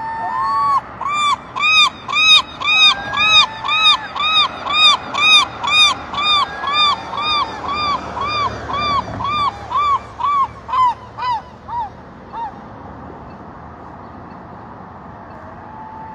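Gull giving its long call: a long series of loud, repeated yelping notes, about two a second, that slow and fade out about twelve seconds in.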